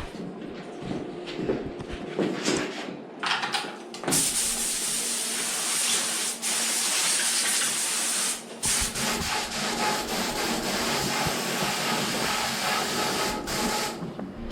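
Compressed air hissing through a paint spray gun in long trigger pulls starting about four seconds in, with two short breaks, cutting off shortly before the end. Light clicks and handling knocks come before it.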